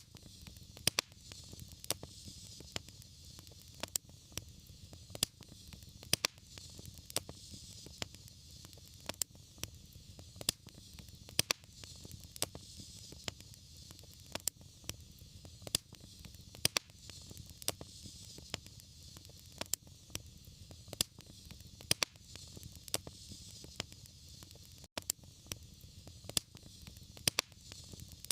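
Wood fire crackling: sharp pops and snaps about once or twice a second over a steady low rumble and soft hiss of burning.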